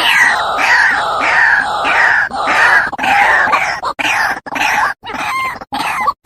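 White-breasted waterhen (ruak-ruak) calling: a fast series of harsh, repeated falling notes, about two to three a second, which breaks up into shorter separate notes with gaps in the last couple of seconds. It is a recorded lure call for drawing in waterhens.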